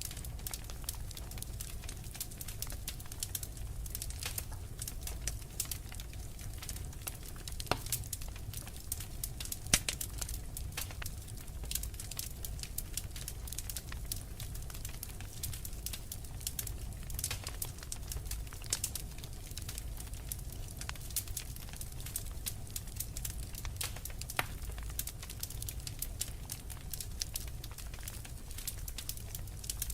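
Fireplace fire crackling: a steady scatter of sharp pops and snaps over a low rumble, with a louder pop about ten seconds in.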